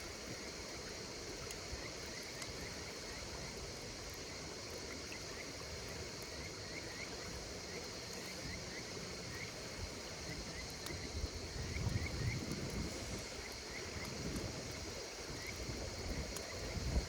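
Wood campfire crackling with occasional sharp pops over a steady chorus of insects, with short chirps repeating. Low gusts of wind hit the microphone from about two-thirds of the way through.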